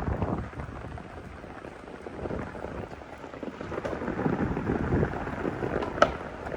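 Steady rain with wind rumbling on the microphone, and a sharp knock about six seconds in.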